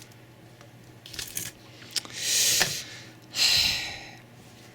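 Handling noise: a few light clicks, then two rustling, scraping passes of about half a second to a second each, like hands moving or sliding phones.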